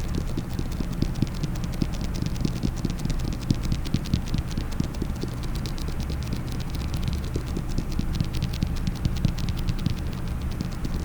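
Fast, crisp fingernail tapping on a case, many taps a second, easing off near the end, over a steady low hum.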